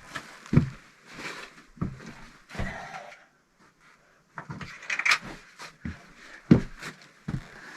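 Irregular knocks and scrapes of hands-on work, with a pause of about a second midway.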